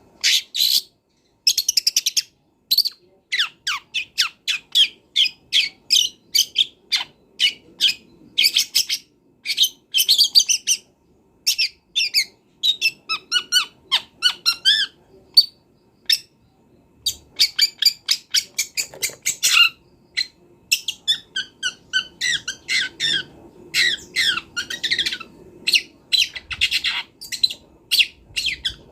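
Long-tailed shrike singing without pause: fast runs of short, harsh chattering notes strung together with phrases mimicked from other birds.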